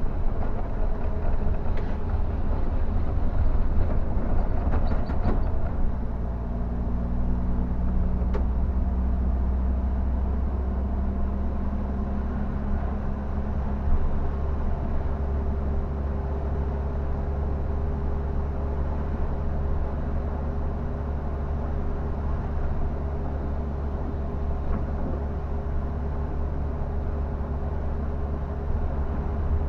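Scania K360 bus driving, its engine a steady low drone, with the engine pitch shifting for a few seconds early on before settling. A few faint clicks sit over it.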